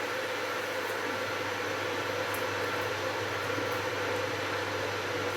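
Steady mechanical hiss with a low hum, and a couple of faint light clicks.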